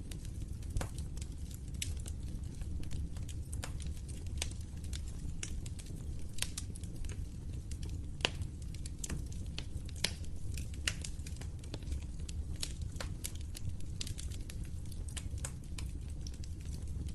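Wood fire burning in a fireplace: a steady low rumble of the flames with irregular sharp crackles and pops, a few louder pops around the middle.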